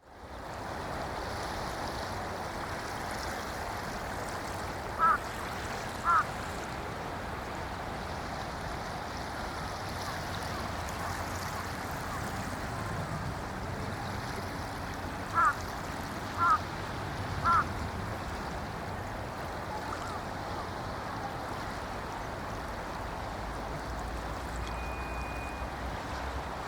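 Small waves lapping and washing steadily on a shallow sandy beach at low tide. A bird cuts in with short, loud calls: twice about five seconds in, then three more in a row about halfway through.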